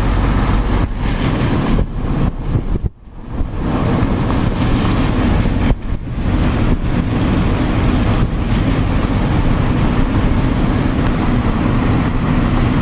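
Road noise inside a moving car: steady engine and tyre rumble on snow-covered streets, dipping sharply for a moment about three seconds in.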